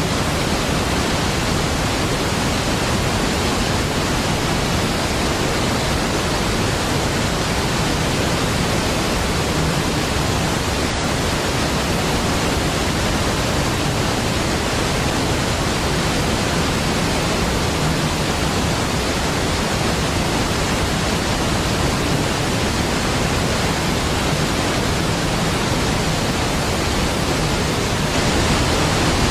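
Large waterfall, Niagara Falls, rushing in a steady, deep, unbroken roar of falling water.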